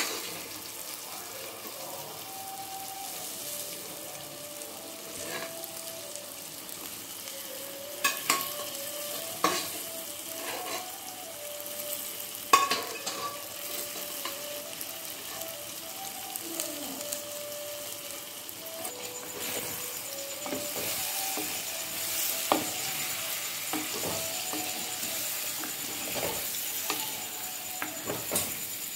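Pieces of boiled country chicken sizzling in masala in a clay pot while a spatula stirs and scrapes through them, with a few sharp knocks of the spatula against the pot now and then; the sizzle grows fuller and brighter past the middle.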